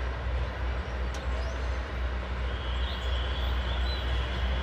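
Low steady rumble of an approaching State Railway of Thailand diesel railcar, with a faint high tone from about halfway through and a couple of small chirps.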